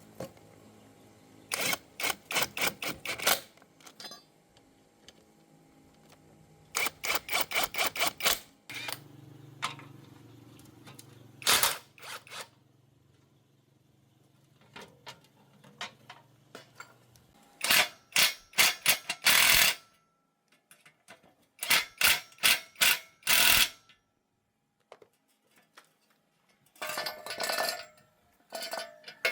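Hand tools working on metal engine parts, heard as several short runs of rapid clicks or taps, about four a second, separated by pauses.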